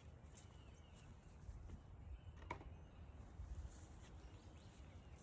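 Near silence: faint low background rumble, with a single soft click about two and a half seconds in.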